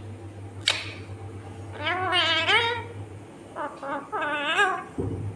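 Indian ringneck parakeet calling: one sharp screech about a second in, then two bouts of wavering, warbling chatter.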